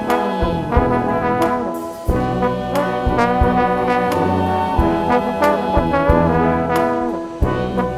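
Live band playing: brass horns holding chords over sharp drum strikes, with a brief break about two seconds in and another near the end before the band comes back in.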